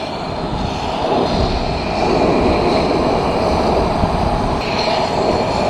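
Wind rushing over the microphone, a steady rumbling rush that grows a little louder about two seconds in.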